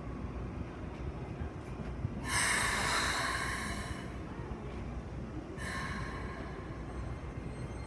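Two sharp air hisses from the Keikyu 1000 series train's pneumatics: a loud one of nearly two seconds, then a shorter one that fades, as the train readies to depart. Near the end, steady electric tones begin as the train starts to pull away.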